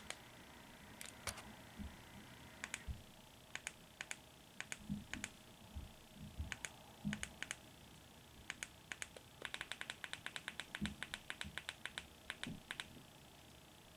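Faint scattered sharp clicks and a few soft low taps, with a quick run of rapid clicks about two-thirds of the way through.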